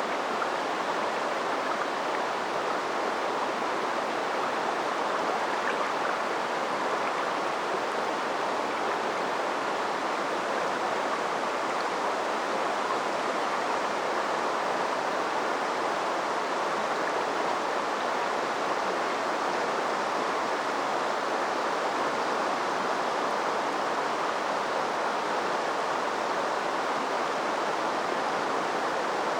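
A river running over rocks: a steady rushing babble that holds even, with no birds or other sounds standing out.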